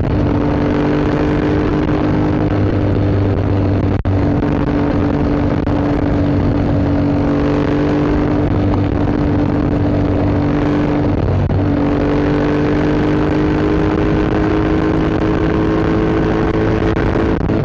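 Yamaha MT-07 parallel-twin running through an Akrapovic Racing Line exhaust at a steady pace while riding. The engine note holds fairly even, with a brief break about four seconds in and another short break a little past the middle.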